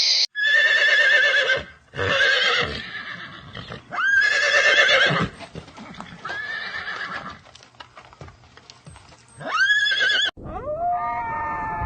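Horse whinnying, about five separate calls with a quavering pitch, some rising sharply at the start. Near the end a different animal call with smooth, falling held tones begins.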